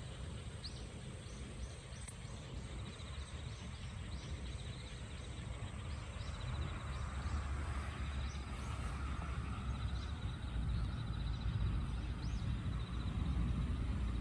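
Steady low rumble of a vehicle that grows slowly louder, with short high bird chirps repeating over it.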